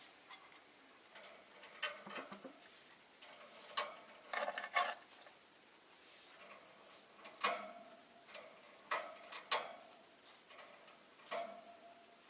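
Rosy-faced lovebirds moving about their cage: irregular sharp clicks and taps, some in quick clusters, a few with a brief ringing note.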